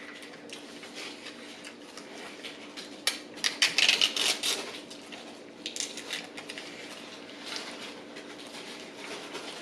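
Close-miked eating sounds: chewing and handling of a sausage, egg and cheese croissant sandwich, with a loud run of crisp crackling clicks from about three to four and a half seconds in and smaller crackles after.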